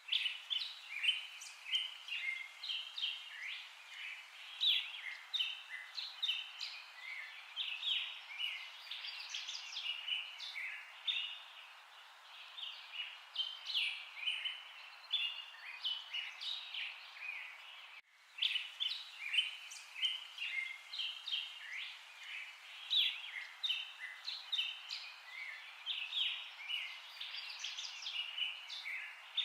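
Several birds singing and chirping at once, a steady overlapping chorus of short high chirps.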